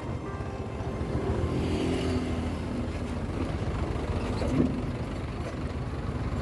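Motorcycle engine running steadily while riding, a continuous low rumble with road and wind noise.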